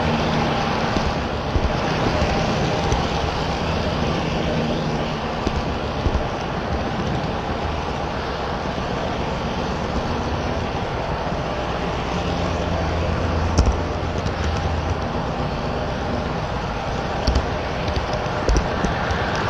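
HO scale model train running on the layout: a steady rumbling clatter with a low motor hum that swells and fades, and a few sharp clicks along the way.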